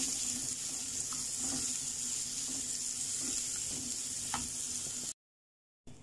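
Chopped onion and garlic sizzling in hot oil in a nonstick kadai, stirred with a silicone spatula that taps and scrapes lightly now and then. The sizzle cuts off suddenly about five seconds in.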